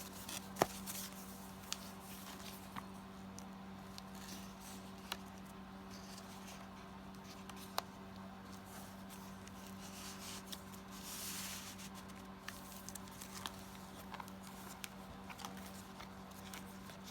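Paper tags and cardstock being handled: soft rustling with occasional light taps and clicks, and a longer rustle about eleven seconds in, over a steady low hum.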